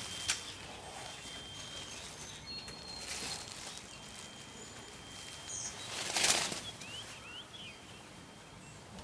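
A freed bird's wings flapping as it flies off: a short flurry about six seconds in, after a softer rustle about three seconds in. Faint bird chirps follow.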